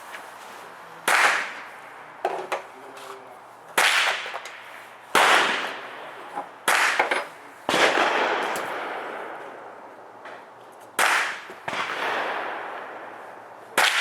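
Sig 522 semi-automatic .22 LR rifle firing single, unhurried shots of standard-velocity ammunition through its 16-inch barrel: about six sharp cracks spaced one to three seconds apart, each trailing off in a brief echo. A few fainter cracks fall between them.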